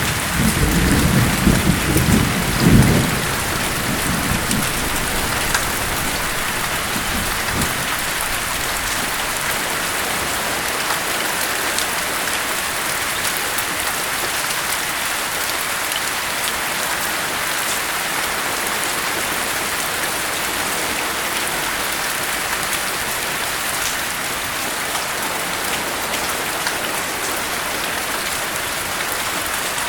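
Steady rain, with the last of a thunder rumble dying away in the first three seconds.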